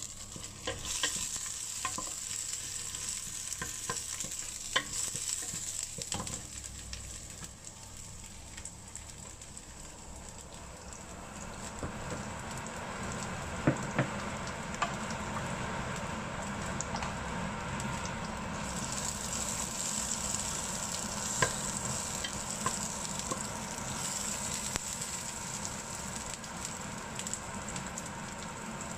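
Sliced shallots and garlic sizzling in hot oil in a nonstick pot while a wooden spatula stirs them, scraping and now and then tapping the pot. The sizzle grows louder about halfway through.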